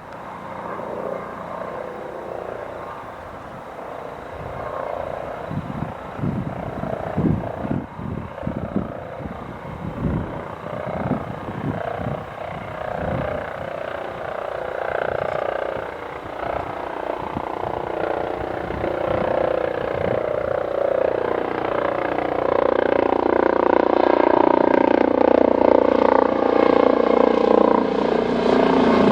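Airbus Helicopters EC-135 T2+ helicopter approaching, its rotor and engine noise growing steadily louder. Irregular low thumps come through in the first half.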